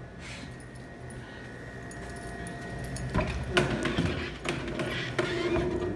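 Hot-water washdown of a refrigerated case: a steady hum and faint high whine, then a noisier stretch with spraying and several clattering knocks from about three seconds in.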